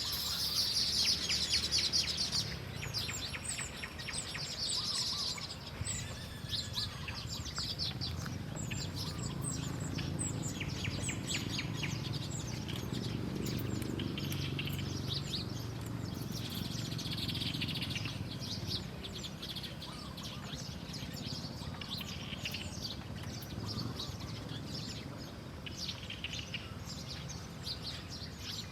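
Small birds chirping and twittering, with quick trills that are densest in the first few seconds, over a steady low rumble.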